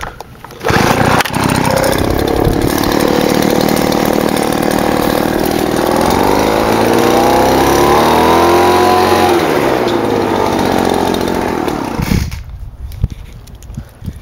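Gas-powered leaf blower blowing grass clippings off a patio. It comes on abruptly about a second in and runs loud and steady, its engine pitch rising and then falling midway as the throttle changes, then drops away about twelve seconds in.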